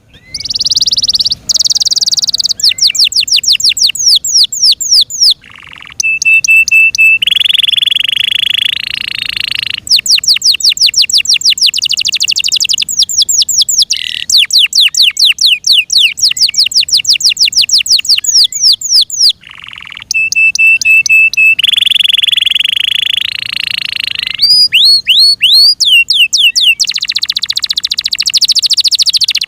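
F1 Yorkshire canary singing a loud, continuous song of fast trills made of repeated sweeping notes, broken now and then by held buzzy stretches.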